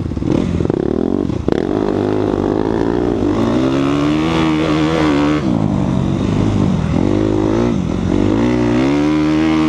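Suzuki RMZ250 four-stroke motocross bike's engine under throttle, its pitch climbing and dropping several times as it is revved and shifted.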